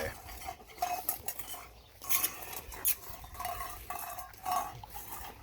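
A dog at a metal food bowl: irregular clinks, scrapes and clatter as the bowl is nosed, licked and pushed about.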